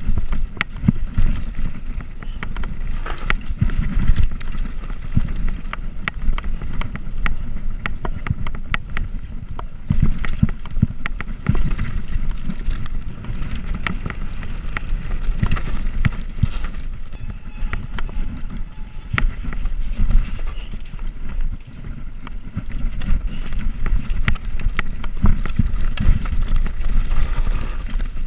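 Riding noise from a bicycle in motion: wind buffeting the microphone as a heavy low rumble, with tyre-on-road noise and frequent small clicks and rattles from the bike.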